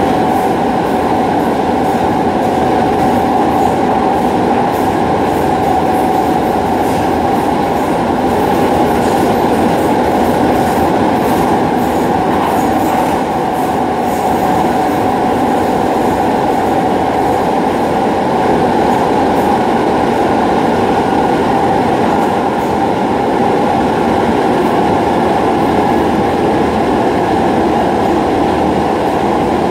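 Docklands Light Railway train running steadily, heard from on board: a continuous rumble of wheels on rail with a steady whine that holds its pitch.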